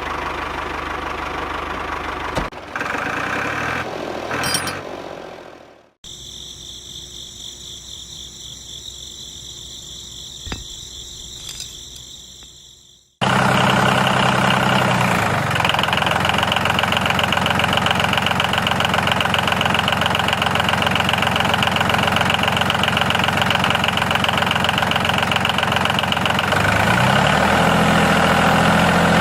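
A small engine or motor running steadily, heard in three separate takes: moderate at first, quieter with a high whine in the middle, then louder with a steady throb that shifts pitch briefly twice.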